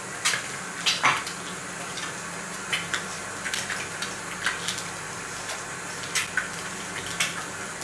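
Food sizzling in a frying pan on a camp stove: a steady hiss broken by about a dozen irregular crackles and pops.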